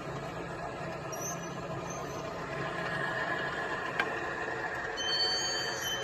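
A vehicle engine running steadily, with a single sharp click about four seconds in and a faint high squeal near the end.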